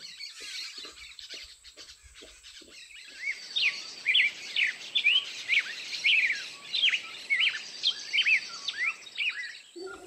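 Birds calling: a quick run of short chirps that sweep up and down in pitch, several a second, starting about three seconds in. Before that, faint short low pulses about twice a second.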